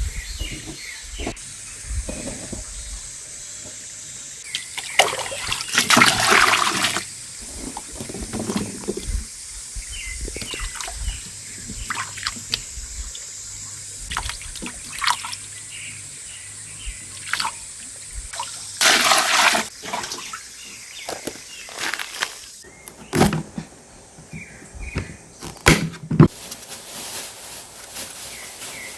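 Water pouring and splashing in two main bursts, about five seconds in and again near twenty seconds, with scattered clicks and knocks in between. A steady high-pitched buzz runs underneath.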